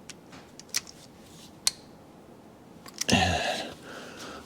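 A few light clicks of a hand wrench on the intake manifold bolts of a Mercedes M156 V8 as each is turned a further 10 degrees in the tightening sequence. About three seconds in there is a short, louder creak with a falling pitch.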